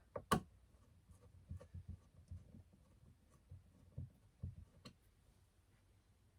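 Faint scattered clicks and light knocks of small hardware and hand tools being handled, with one sharper click just after the start.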